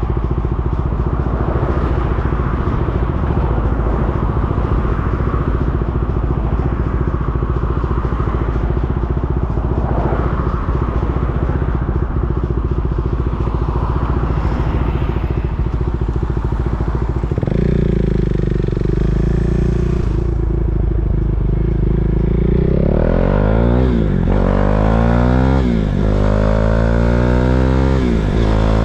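KTM Duke 390's single-cylinder engine running in slow traffic, settling to a steady idle about two-thirds of the way in. Near the end it pulls away, the revs rising and dropping back several times as it shifts up through the gears.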